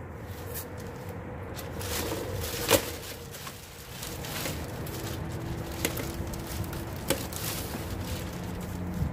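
Rustling and handling of items being unpacked from a bag, with a few sharp knocks, the loudest about three seconds in.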